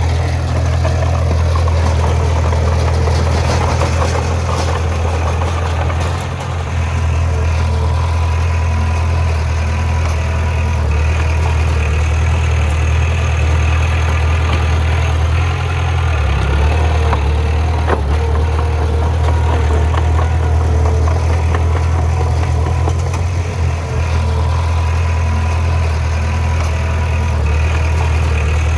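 Bulldozer's heavy diesel engine running with a steady low drone that eases off briefly a few times, with a single sharp knock about two-thirds of the way through.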